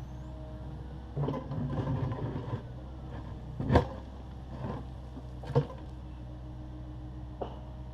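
Takeuchi TB260 excavator's diesel engine running steadily while its bucket works broken concrete: a crunching rattle about a second in, a sharp clank near the middle, another at about five and a half seconds, and a lighter knock near the end.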